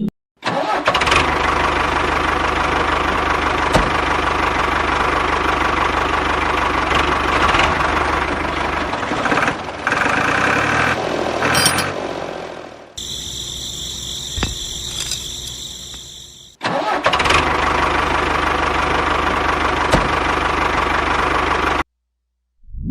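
A motor running steadily, in separate edited stretches that start and stop abruptly. In the middle stretch it gives a thinner, high whine.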